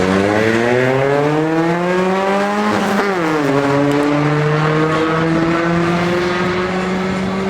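Ford Ka's engine accelerating hard, revs climbing for about three seconds, dropping sharply at a gear change, then climbing slowly again in the next gear.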